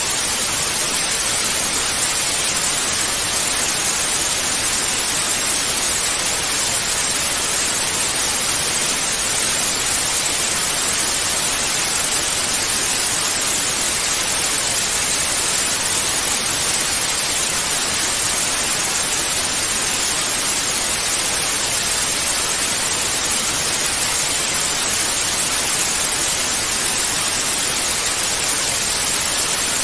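Analog TV static: steady, loud hiss of an untuned television, even and unchanging, bright and strongest in the highs.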